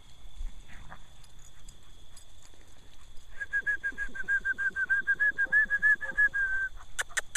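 A bird calling a rapid series of short, even notes at one pitch, about seven a second for some three seconds, starting about three seconds in. A couple of sharp clicks follow near the end.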